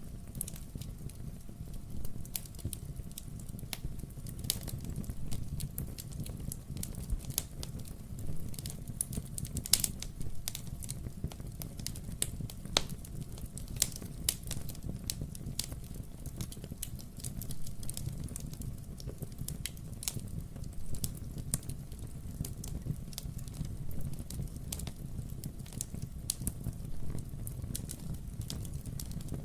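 Wood-burning fireplace crackling: irregular sharp pops and snaps of burning logs, some louder than others, over a steady low rumble of the fire.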